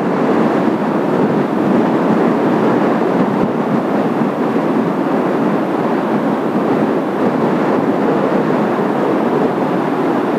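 Steady, even jet roar from Blue Impulse Kawasaki T-4 trainer jets flying a display pass, with no clear rise or fall in level.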